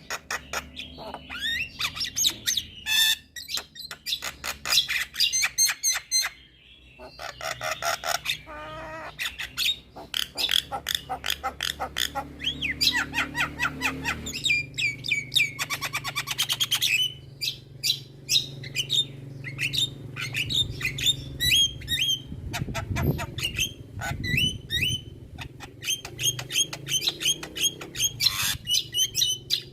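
Javan myna singing a fast, varied song of rapid clicks, whistles and harsh chattering notes, packed with mimicked calls.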